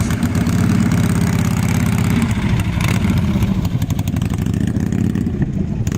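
Harley-Davidson Sportster V-twin engine idling with a fast, even pulse. It is kept running because of battery trouble: its charging system is faulty.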